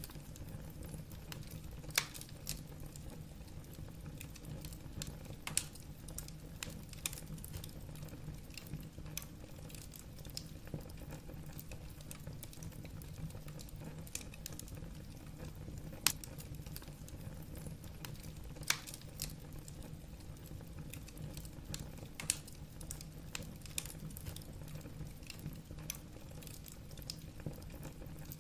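Wood fire burning in a fireplace: logs crackling with irregular sharp pops, a few louder than the rest, over a low steady rumble.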